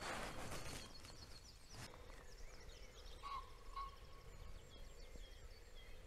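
Faint dawn birdsong: several small birds chirping and whistling short gliding notes, with two clearer whistled notes about halfway through. Footsteps brushing through grass are heard for the first couple of seconds.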